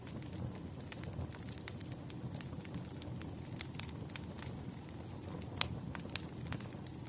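Wood fire crackling, with frequent small pops and snaps over a low steady rumble of burning logs; one louder pop about five and a half seconds in.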